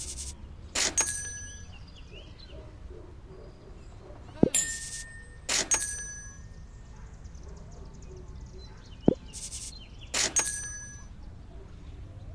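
Bright metallic dings in short clusters, coming back about every four and a half seconds, with a sharp click shortly before each set.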